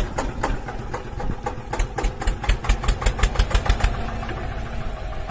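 Small engine of a homemade mini tractor running with distinct, evenly spaced firing pulses. It picks up and runs louder and quicker for a couple of seconds in the middle, then settles back to a steadier idle.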